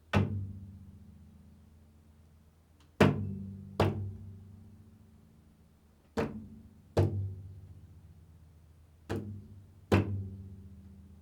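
A low-pitched drum struck slowly: one stroke, then three pairs of strokes, each ringing on and fading.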